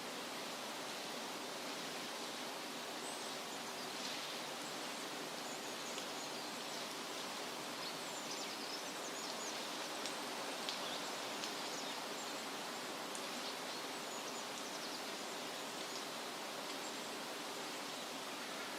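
Steady rustle of wind through leafy trees, with faint, brief high bird chirps scattered through the middle.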